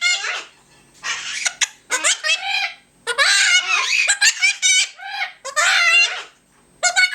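Pet parrots vocalising in a string of short, high-pitched calls that bend up and down, sounding like talking and laughter.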